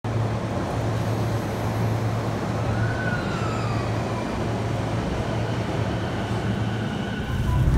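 Electric commuter train standing at a station platform, giving off a steady low hum over station background noise, with a faint short glide in pitch a little after three seconds in.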